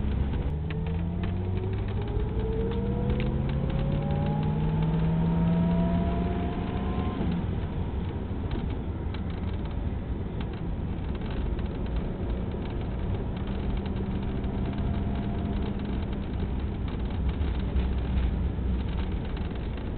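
Car engine heard from inside a moving car, with road rumble. Its note rises steadily as the car accelerates for about seven seconds, then holds steady at cruising speed.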